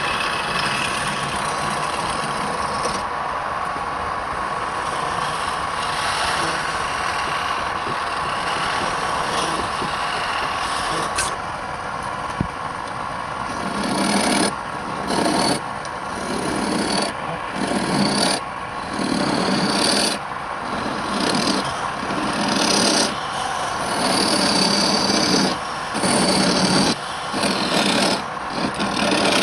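Wood lathe running steadily, then from about halfway a tool or abrasive worked against the spinning wood in repeated strokes of about a second each, a scraping, rubbing sound that starts and stops with each pass.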